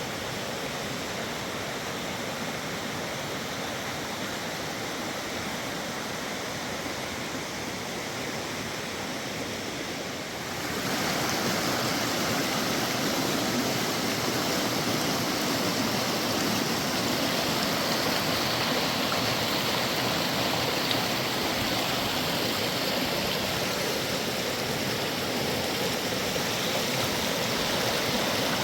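A fast river rushing steadily. About ten seconds in it suddenly gets louder and brighter.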